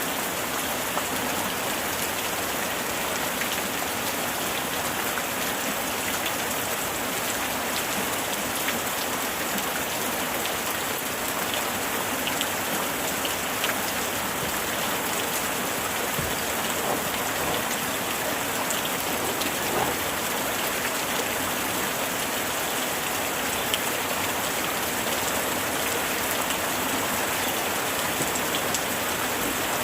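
Heavy rain falling steadily, an even wash of noise with scattered sharper drop hits standing out.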